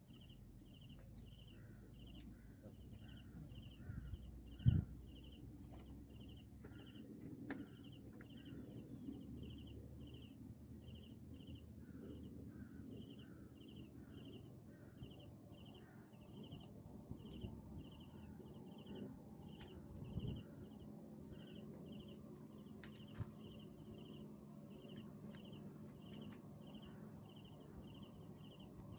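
An insect calling in a steady run of short, high chirps, about two a second, over faint outdoor background noise. A brief knock about five seconds in is the loudest sound.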